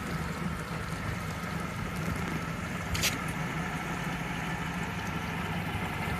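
Four-stroke fuel-injected outboard engine idling steadily, with a single sharp click about three seconds in.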